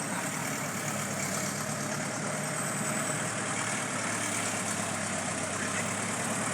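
1940 Ford Tudor's engine running at a steady, even speed.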